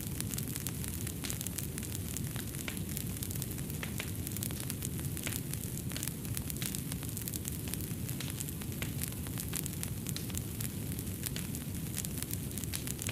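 Fireplace fire crackling: many small irregular pops and snaps over a steady low rumble.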